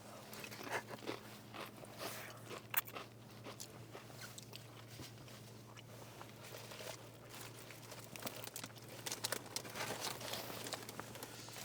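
A person biting and chewing crunchy food close to the microphone, with irregular faint crunches and smacks. A steady low hum runs beneath.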